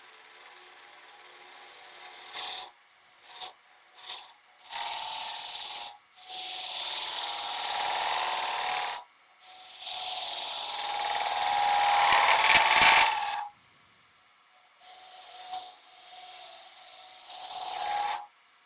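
Wood being cut on a lathe in a series of short passes, each a harsh scraping hiss lasting from one to a few seconds, with near-quiet gaps between. The two longest and loudest passes come in the middle.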